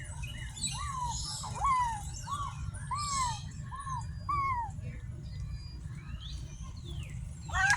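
A zoo bird calling: a run of about seven short notes, each rising then falling in pitch, about half a second apart, then stopping about halfway through. Faint higher chirps from other birds come in around the middle.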